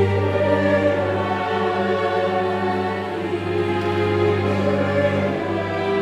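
Mixed choir singing sustained chords with a chamber orchestra, over a steady held bass note.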